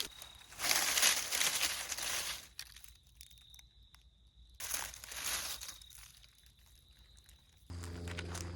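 Footsteps crunching through dry leaf litter in two stretches, the first about two seconds long and the second about a second long, over a thin steady high tone. A steady low hum starts near the end.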